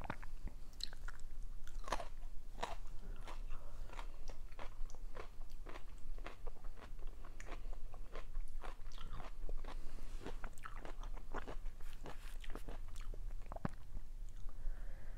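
Close-up chewing of stuffed grape leaves (dolmas) in sauce: soft, wet mouth clicks and smacks, irregular, a few each second.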